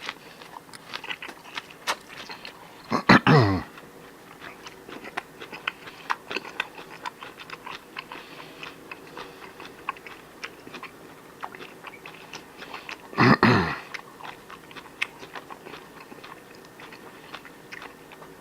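A person chewing food close to the microphone, with many small wet clicks and crunches. Two louder sounds of about half a second each, falling in pitch, come about three seconds in and again about thirteen seconds in.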